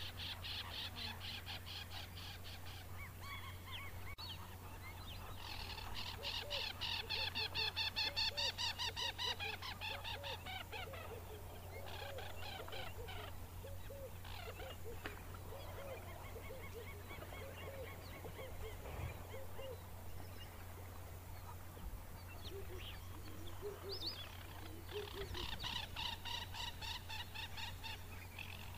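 Wetland birds calling: rapid rattling series of high calls in bursts, loudest about a third of the way in and again near the end, with lower, evenly repeated calls in between, over a steady low hum.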